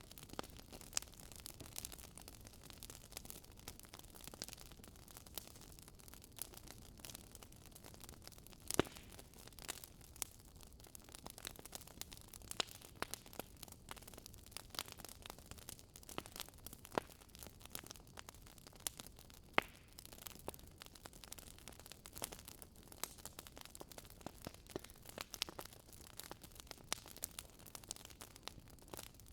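Wood fire crackling in a fireplace: irregular small snaps and pops over a low hiss, with two louder pops about nine and twenty seconds in.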